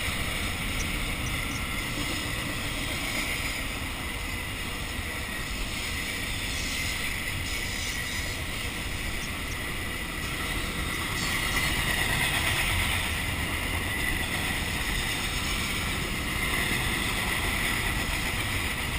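Steady outdoor rush of wind and moving water, with wind rumbling on the microphone; a slight swell in loudness about two-thirds of the way through.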